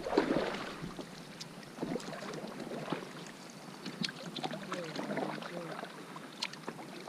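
Kayak being paddled: the paddle blades dip and splash in the water, with drips and occasional light knocks at irregular moments.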